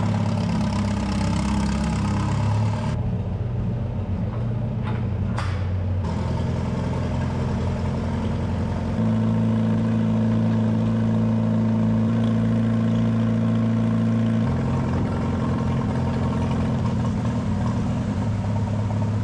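Farmall Super H tractor's four-cylinder engine running steadily, its speed changing a few times and a little louder from about nine to fourteen seconds in.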